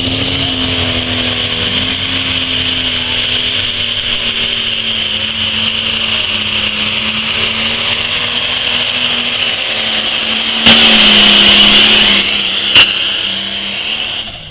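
Pulling tractor's engine running hard at a steady, high pitch under load, its note rising a little at the start. About eleven seconds in, a loud rushing noise comes in for over a second, followed by a single sharp crack.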